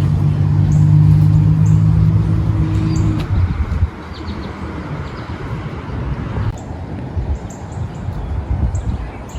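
An engine hums steadily, loud at first, then drops away about three and a half seconds in. Small birds chirp in short high notes throughout.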